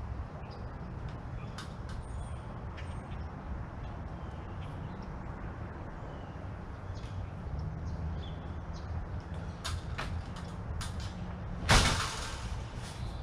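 Steady low outdoor rumble with scattered small clicks and knocks of tools and scrap being handled, then one loud clank near the end that rings out briefly.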